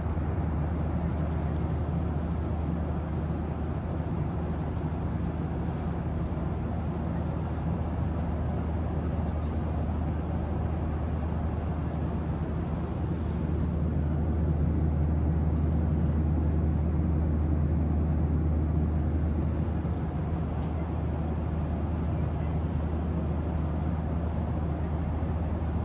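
Steady cabin noise of an airliner in level cruise flight: engine and airflow drone, deep and even, swelling slightly about halfway through.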